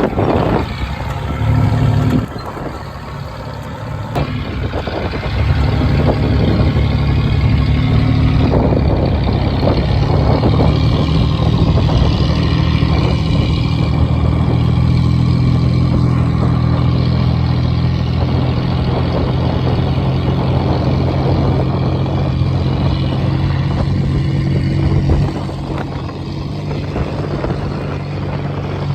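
A vehicle engine running steadily with road noise. It gets louder about five seconds in and drops back near the end.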